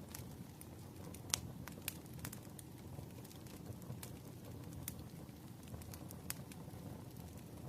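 Crackling fire ambience: irregular sharp pops and snaps, the loudest about a second and a half in, over a steady low hiss, mixed with a background of rain.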